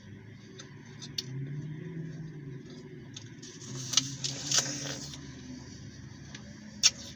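Someone chewing a crisp green apple: wet, crunchy bites with sharp mouth clicks, the loudest crunching about four to five seconds in.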